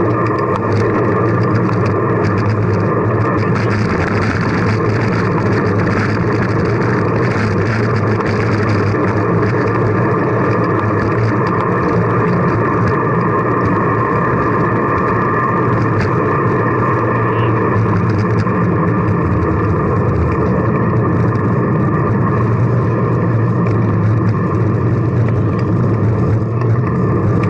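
Steady, loud wind rush and road rumble on the microphone of a camera riding along on a moving bicycle.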